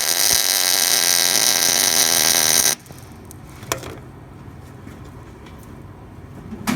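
MIG welder arc buzzing and crackling steadily as a nut is welded onto a broken exhaust manifold stud; the arc cuts off abruptly about three seconds in. A couple of short clicks follow.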